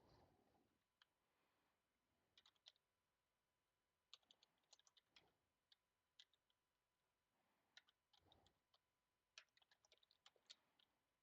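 Faint typing on a computer keyboard: irregular bursts of keystrokes with pauses between them, and a few soft breaths.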